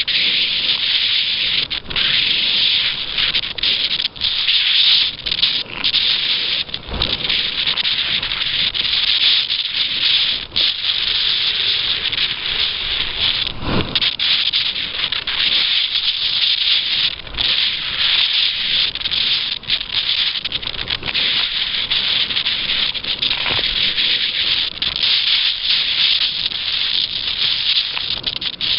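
Loud, steady rushing hiss of wind and water while sail-kayaking, flickering rapidly in level, with a couple of dull thumps, one about seven seconds in and one about fourteen seconds in.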